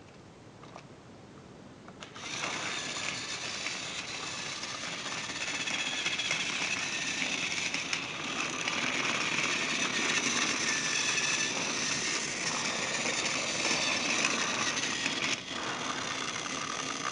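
Thomas & Friends Trackmaster motorised Paxton toy engine starting up about two seconds in, its small battery motor and plastic gears whirring steadily as it runs along plastic track. The sound dips briefly near the end.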